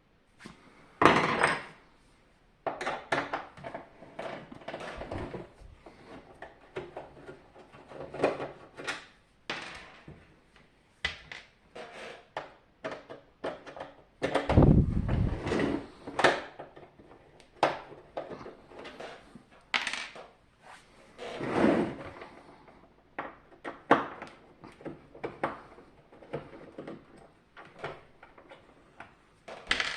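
Irregular clicks, knocks and clatters of hard plastic and metal parts being handled while a dehumidifier is taken apart, with louder knocks near the start and around the middle.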